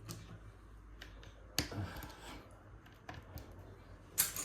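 LEGO bricks being handled and pressed into place, a few scattered plastic clicks and taps. The sharpest click comes about one and a half seconds in, and another near the end.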